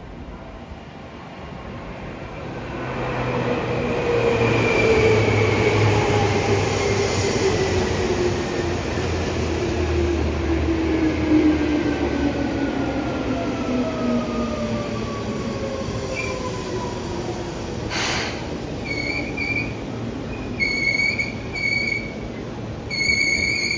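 Seibu New 2000 series electric train (two sets coupled) pulling in and braking. Its motor whine falls steadily in pitch as it slows, there is a brief sharp burst of noise about 18 seconds in, then a high brake squeal comes in short bursts near the end as it comes to a stop.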